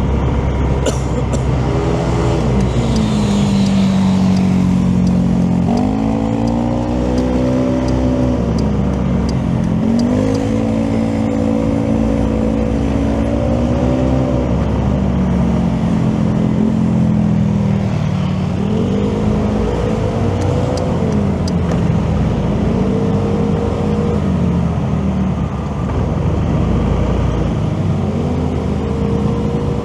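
Motorcycle engine running under the rider, its pitch rising with the throttle, holding, then dropping several times as it speeds up and eases off, over a steady low wind rumble.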